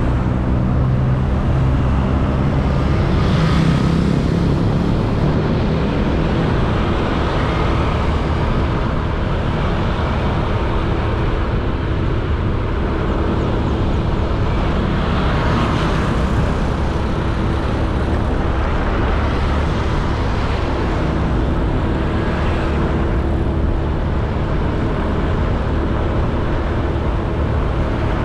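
Honda Beat 110cc scooter's single-cylinder four-stroke engine running under way, mixed with steady wind and road noise. Several swells of louder noise come a few seconds in, around the middle, and about three quarters of the way through.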